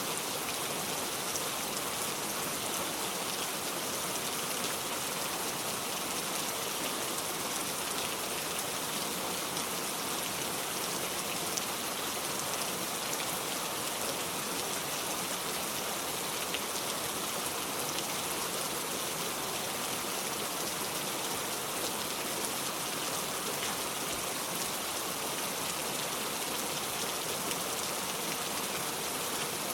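Steady rain falling, a dense even hiss of drops with faint scattered patters on a surface.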